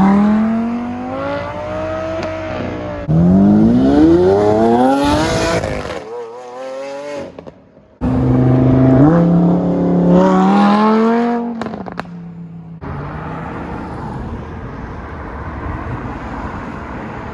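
Car engines revving and accelerating hard, the pitch climbing in repeated sweeps, in several short clips cut together; near the end a steadier, quieter engine drone.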